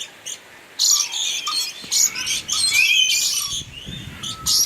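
A flock of small birds chirping and calling in quick, high, overlapping bursts.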